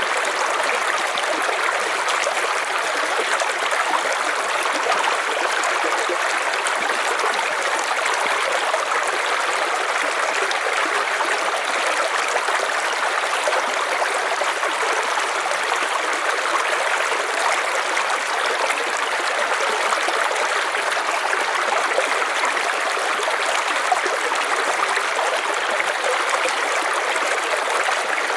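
River water flowing over rocks in a steady rush with no change.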